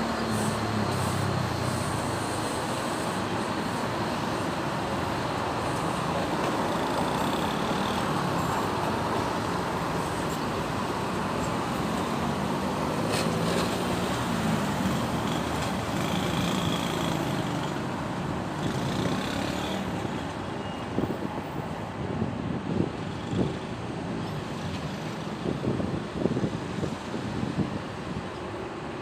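Busy city road traffic: the steady noise of passing cars, trucks and buses, engines running and tyres on the road.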